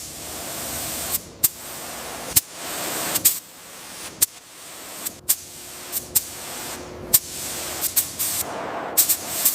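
A hissing spray rises and falls in short stretches, broken by about a dozen sharp clicks at irregular intervals.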